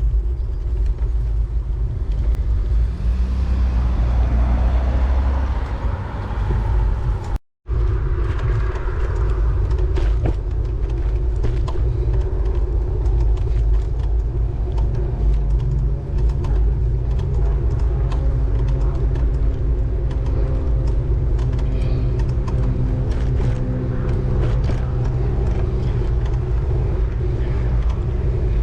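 Steady wind and road rumble from riding a road bike, with a car passing in the first few seconds. The sound cuts out completely for a moment about seven seconds in, then the rumble carries on.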